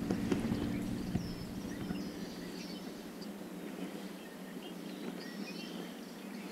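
Several short bird chirps over steady outdoor background noise, with a low hum in the first couple of seconds.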